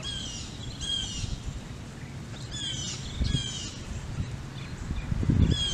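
A songbird calling again and again: short high chirps that fall in pitch, coming in pairs about a second apart and again a few seconds later. Underneath is a steady low outdoor rumble, with a louder low bump near the end.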